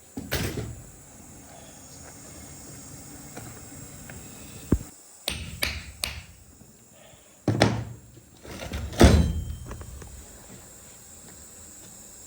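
A series of separate knocks and clunks, hard parts being set down or struck in a workshop, with the loudest two late on, over a low steady background hum.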